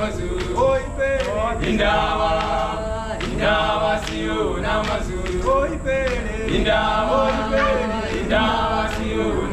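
A group of voices singing together in harmony, choir-style, in sung phrases.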